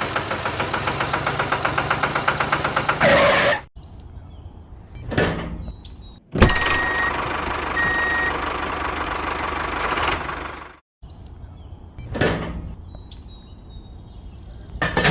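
Engine-driven vehicle sounds in several abruptly cut segments: first a rhythmic pulsing engine at about seven beats a second growing louder, then quieter passes, then a loud steady running stretch that cuts off suddenly.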